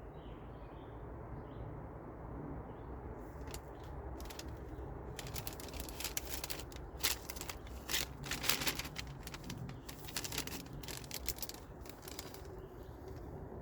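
Plastic packaging crinkling and crackling in the hands, in irregular handling noises for several seconds, loudest in the middle, over a steady low outdoor background.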